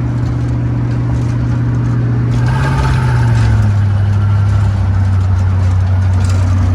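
Rat rod's twin-turbo 350 small-block Chevrolet V8 running under way, heard from inside the car. Its note rises briefly about two and a half seconds in, with a rush of higher-pitched noise, then settles lower and steady.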